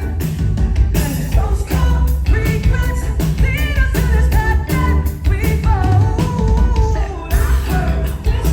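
Live pop-rock band music with a singing voice over drums, bass and guitar, loud and continuous.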